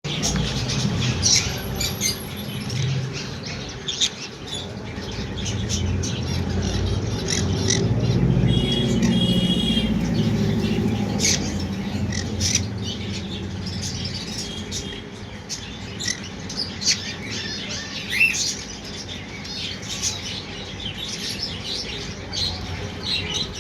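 Many birds chirping and squawking in quick, overlapping short calls, with a longer pitched call about nine seconds in, over a low rumbling background.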